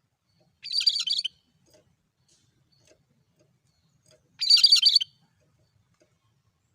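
Cucak kerinci calling: two short bursts of rapid, chattering notes, about three and a half seconds apart, the same phrase each time.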